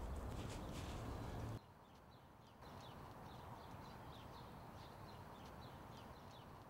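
Small birds chirping: many short, high chirps. A low rumble under them stops suddenly about a second and a half in.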